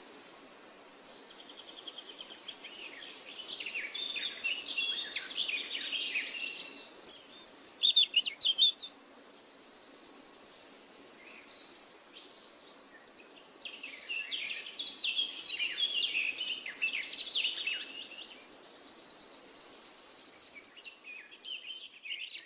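Songbirds singing in two long bouts of rapid, jumbled chirps and warbles, with a high, steady buzzing trill that comes and goes several times in between.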